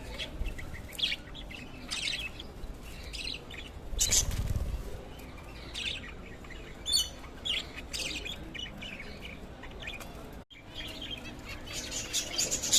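Several small birds, likely pet parrots, chirping and tweeting in short, scattered calls, with a brief louder noisy burst about four seconds in.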